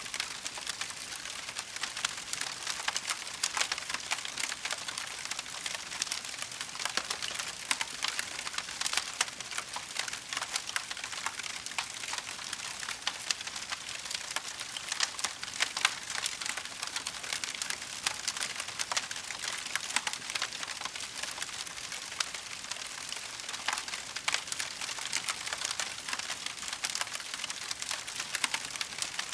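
Wood fire crackling steadily in a fireplace: a continuous stream of small pops and snaps over a soft hiss.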